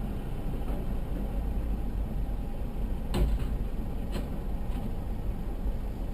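Steady low rumble of a car driving, with two short knocks about three and four seconds in.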